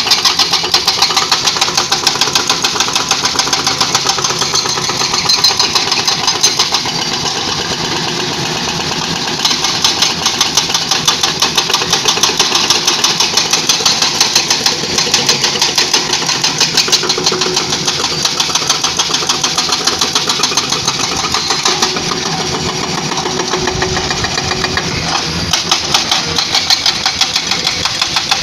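Excavator-mounted hydraulic breaker hammering rock in rapid, evenly spaced blows over the running diesel engine, stopping briefly twice before starting again.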